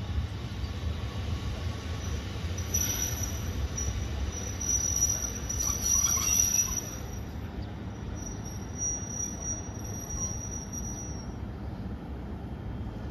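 JR Hokkaido 721 series electric multiple unit rolling into a station and braking to a stop, with a low rumble and a high-pitched squeal. The squeal is loudest about three and six seconds in and dies away shortly before the end as the train stands still.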